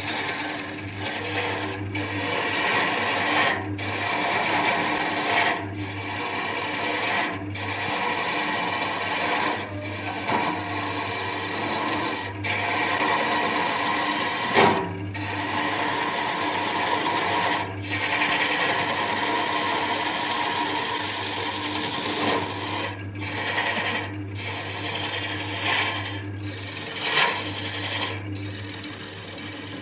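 Wood lathe running with a tool working the spinning wood, a steady machine hum under the scraping noise. Short breaks come every couple of seconds.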